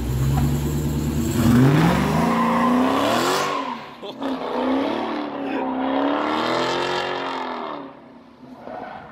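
Dodge Charger track car pulling away hard. Its engine climbs steadily in pitch over the first three seconds, then keeps rising and falling as the car drives the course, and fades near the end.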